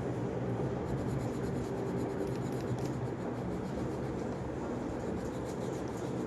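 Coloured pen scratching and rubbing on paper in repeated colouring strokes, over a steady low hum.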